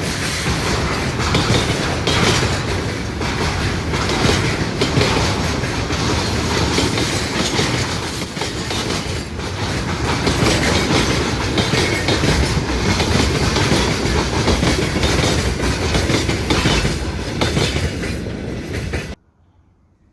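Train running past close by: a loud, steady wash of rail noise with the wheels clattering over the rail joints. It cuts off abruptly about a second before the end.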